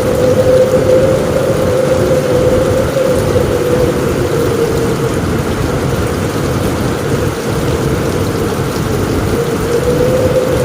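Heavy rain falling steadily on a roof, a dense even downpour with a low rumble underneath.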